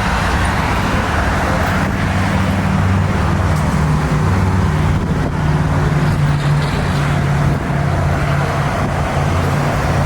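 A vehicle engine running close by: a steady low drone with a slight wavering in pitch, over a general wash of background noise.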